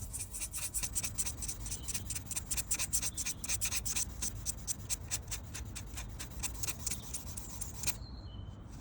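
Abrasive rubbed back and forth by hand over a car's fresh clear coat, in quick, even strokes about five a second, flatting down nibs to a level finish. It stops about eight seconds in.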